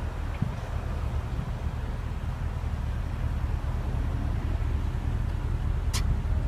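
Steady low rumble of outdoor background noise, with a single sharp click near the end.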